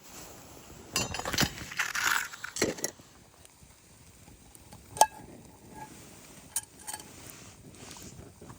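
Crunching handling noises for a couple of seconds, then one sharp metallic clink with a brief ring about five seconds in, followed by a few lighter clicks.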